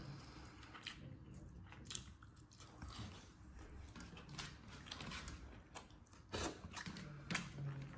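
A person chewing a mouthful of rice and chicken curry eaten by hand, with faint wet mouth sounds and a few scattered sharp clicks.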